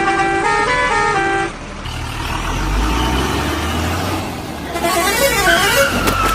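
Vehicle sound effects: a short tune of stepped horn notes, then a deep engine-like rumble with hiss, then a warbling siren-like tone and a held horn note near the end.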